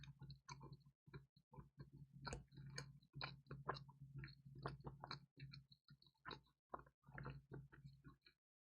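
Close-miked chewing of crispy pizza: an irregular run of short crunches and mouth clicks, several a second, over a faint steady low hum.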